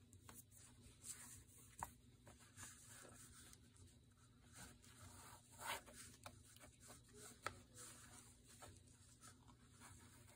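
Faint rustling of paper being handled, with scattered soft clicks and light taps.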